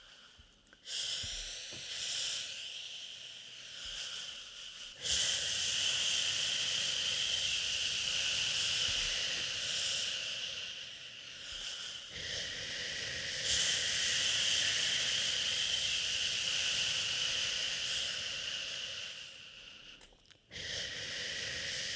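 A person shushing a baby, making long drawn-out "shhh" sounds several seconds each. They are broken by brief pauses for breath, the longest near the end.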